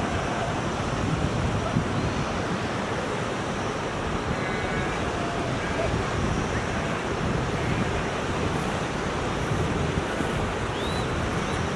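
Steady rushing outdoor noise, such as wind or flowing water, with a few faint, short high tones.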